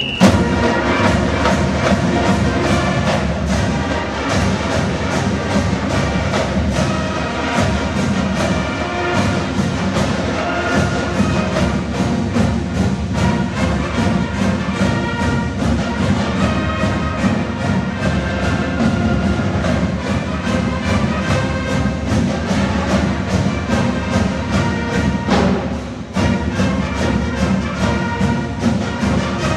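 High school marching band playing, brass over a steady, evenly spaced drum beat, with a short drop in volume about 26 seconds in before the band comes back in.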